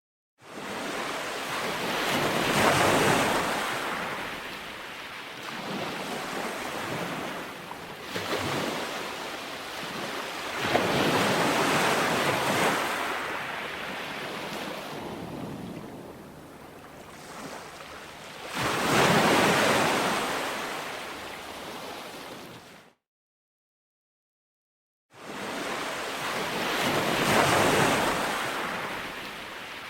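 Ocean waves breaking and washing up a beach, each surge swelling and fading about every eight seconds. The sound cuts out to dead silence for about two seconds near the end, then comes back.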